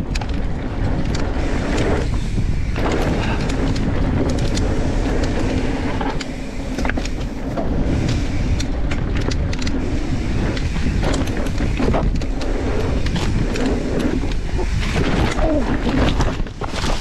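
Mountain bike riding down a dirt downhill trail: continuous tyre and trail rumble with frequent clicks and knocks from the bike over bumps.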